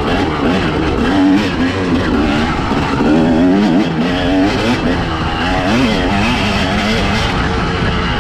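Two-stroke enduro motorcycle engine under way on a dirt trail, its revs rising and falling repeatedly with the throttle.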